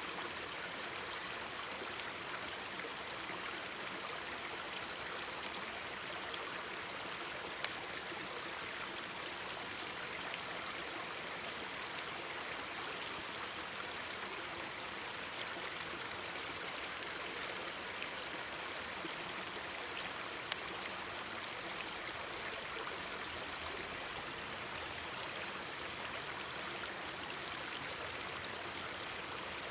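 Mountain stream babbling steadily over rocks, with a couple of sharp pops from a crackling wood campfire, one about eight seconds in and another about twenty seconds in.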